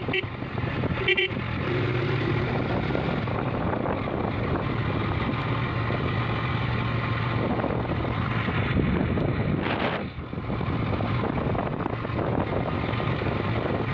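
Motorcycle engine running steadily while riding, with wind buffeting the microphone. A short beep sounds about a second in.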